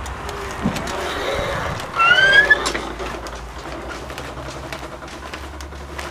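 Steady low hum of a vehicle running, with a short rising squeak about two seconds in.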